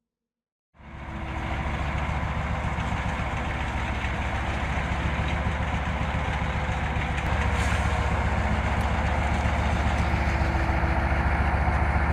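Heavy truck engine running steadily, with a rapid low pulse. It fades in after a moment of silence and gets louder about seven seconds in, as if under more throttle.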